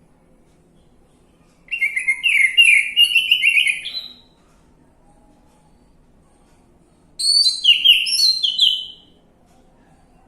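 Orange-headed thrush singing: two phrases, each a quick run of varied notes about two seconds long, the first starting about two seconds in and the second about seven seconds in.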